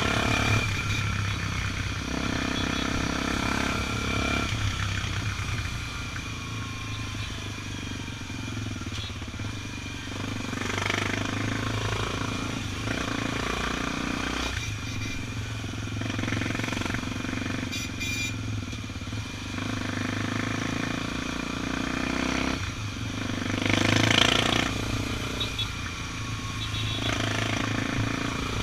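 Honda XR 250 Tornado's single-cylinder four-stroke engine running under way, its note rising and falling with the throttle, over steady road noise. The sound swells to its loudest briefly near the end.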